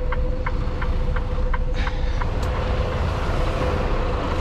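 Inside a semi-truck's cab with the engine running: a steady low hum, with the signal relay clicking about three times a second. Just under two seconds in the clicking gives way to a rising rush of engine and road noise as the truck moves, which drops off again near the end.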